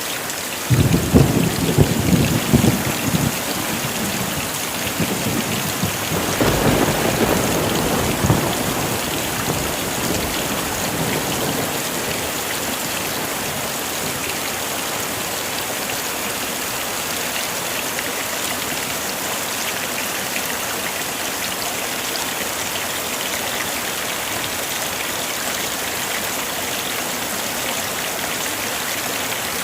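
Heavy rain falling steadily, with two rolls of thunder rumbling in the first ten seconds.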